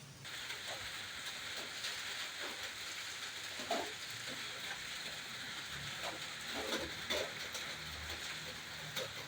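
Steady rain, an even hiss that starts abruptly just after the start, with a few faint short sounds over it.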